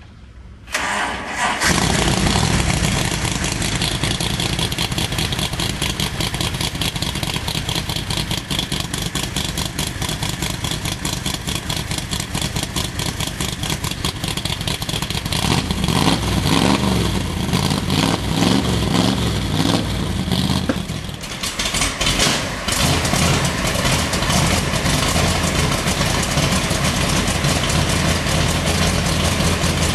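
521-cubic-inch stroked Ford 460 big-block V8 in a Factory Five Cobra replica cranking briefly and firing up easily on a cold start, after sitting for a couple of days. It then runs on, louder for a stretch past the middle with a short dip around twenty seconds in, and settles back to a steady idle.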